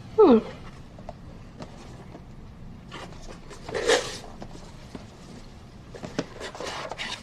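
A brief falling vocal sound, then several short bursts of rustling as gifts and their packaging are handled.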